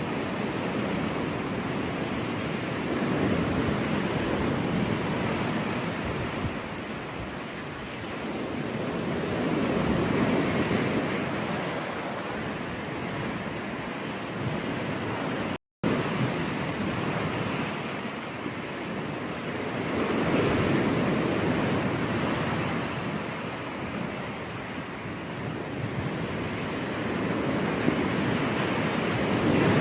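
Ocean surf: waves breaking and washing ashore, swelling and easing every several seconds, with a brief dropout to silence about halfway.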